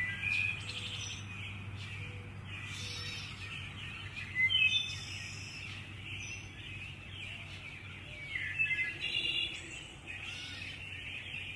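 Songbirds singing and chirping in a forest, with louder calls about four and a half and eight and a half seconds in, over a steady low hum.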